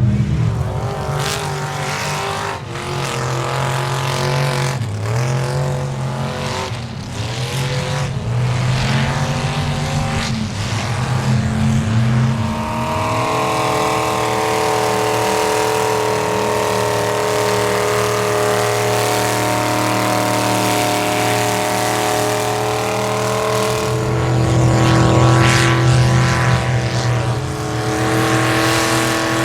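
Square-body Chevy pickup's engine revving hard in a mud bog. For the first dozen seconds the pitch climbs and drops repeatedly, then it holds at a steady high rev for the rest of the run.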